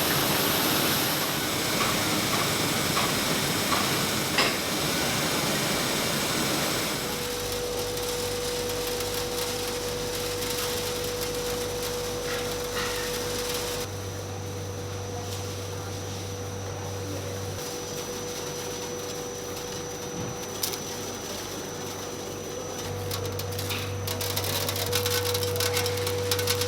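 Steady rushing noise of button-polishing machinery, which ends abruptly about seven seconds in. After that the room is quieter, with a steady hum, a held tone and a few light clicks and taps.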